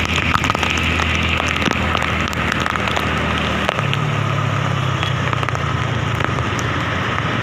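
Heavy monsoon rain pattering down, with many drops spattering close by. Under it runs a steady low vehicle engine hum that steps up in pitch about four seconds in.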